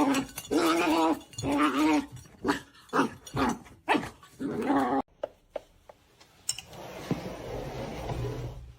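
A dog vocalizing in a run of short pitched calls during the first five seconds, then a steady hiss from about six and a half seconds in.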